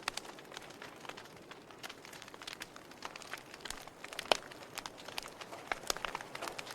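Wood fire crackling: irregular sharp pops and snaps over a soft hiss, with one louder pop a little past four seconds in.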